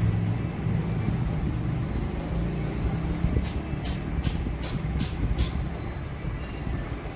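Hot air rework station blowing steadily, a low rushing rumble, while a connector is being heated off a phone circuit board. About halfway through come six short, high, hissy ticks in quick succession.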